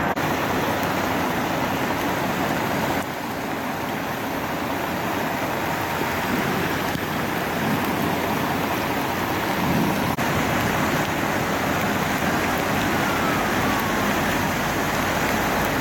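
Steady rushing noise of heavy rain and flood water.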